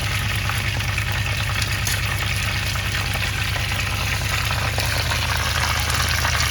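Boiled chicken pieces sizzling in hot oil as they deep-fry for crispy fried chicken: a steady hiss, with a steady low hum underneath.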